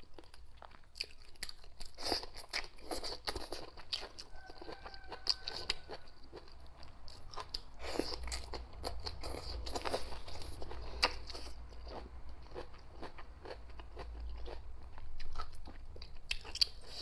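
A person chewing and crunching food, with many short crisp crunches and mouth clicks spread throughout.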